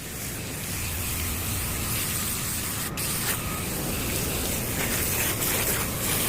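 Garden hose spraying water onto an air-conditioner condenser coil, a steady hiss of water rinsing a season's dirt off the fins.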